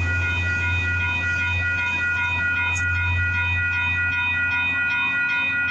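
Railroad crossing signal bell ringing in a fast, even repeating rhythm while a train passes with a steady low rumble, which eases off near the end.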